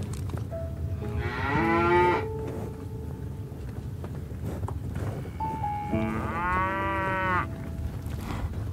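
Cattle mooing twice: a call of about a second near the start, the loudest sound here, and a longer one of about a second and a half some six seconds in.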